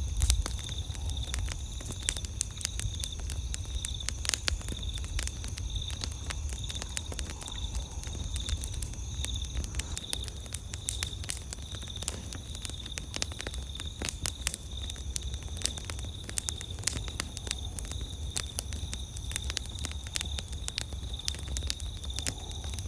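Wood campfire crackling and popping: many irregular sharp snaps over a low rumble, with a steady high insect trill behind it.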